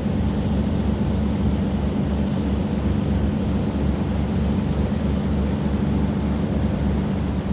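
Boat engine running at a steady speed: a continuous drone with a pulsing low throb underneath.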